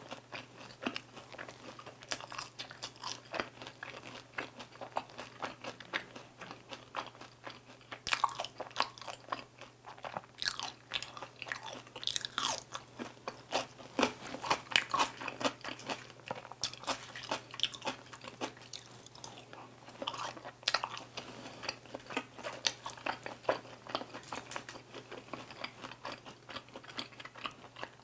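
Close-up chewing of crispy Korean seasoned fried chicken (dakgangjeong): a steady run of irregular crunches and mouth sounds, busiest in the middle stretch.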